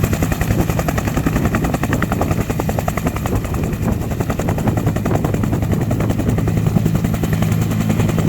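Bell helicopter's two-bladed main rotor beating in a rapid, even rhythm over the steady hum of its turbine engine.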